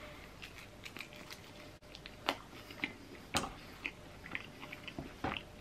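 Close-up chewing of a mouthful of baked bean pizza: faint, scattered wet crunches and clicks, with a couple of louder crunches in the middle.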